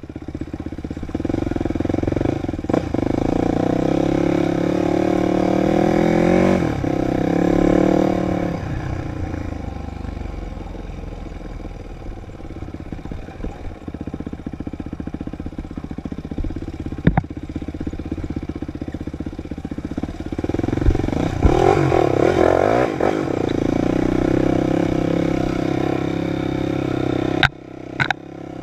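Dirt bike engine revving up and down as it is ridden, the pitch rising and falling repeatedly, with occasional sharp knocks and clatter near the end.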